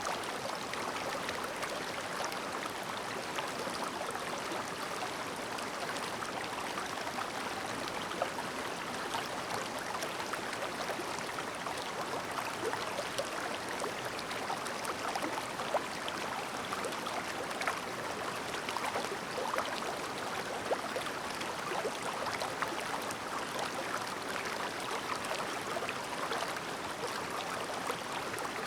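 Clear, shallow mountain stream babbling and gurgling steadily over stones, with many small splashes.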